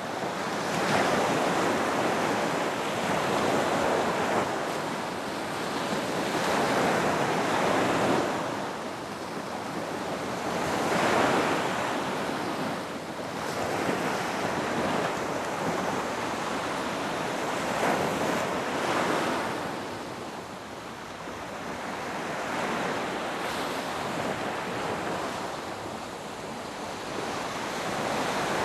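Ocean waves breaking on a beach, the surf swelling and ebbing every few seconds in a steady wash.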